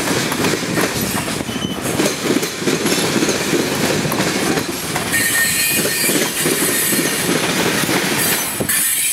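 Freight train cars rolling past on jointed track, wheels clattering over the rails. About halfway through, a thin high-pitched wheel squeal joins in.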